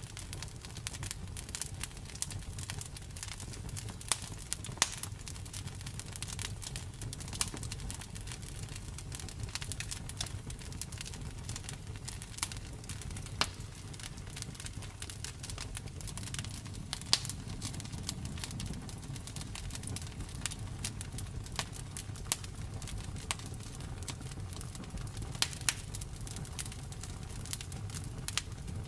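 Wood fire crackling, with irregular sharp snaps and now and then a louder pop over a steady low rumble of the flames.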